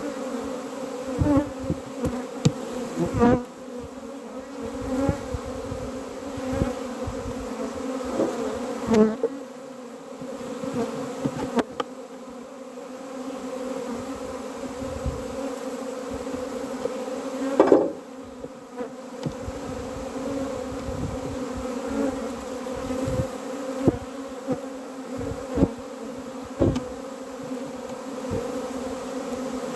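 A honeybee colony buzzing at an open hive, a steady hum that swells and eases. Irregular low knocks and bumps come through it, the loudest about eighteen seconds in.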